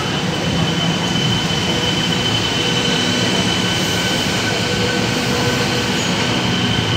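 A Melbourne Metro electric suburban train slowing to a stop at an underground platform, with a steady high-pitched squeal held over the rumble of the train.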